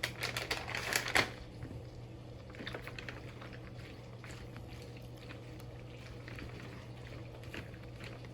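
Light clicking and rattling of macaroni, cheese and milk being mixed in a bowl. A run of sharper clicks comes in the first second or so, then fainter scattered clicks over a steady low hum.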